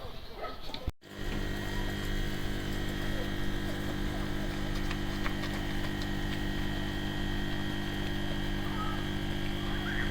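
A steady machine hum with many evenly spaced tones, unchanging in pitch, starting abruptly about a second in.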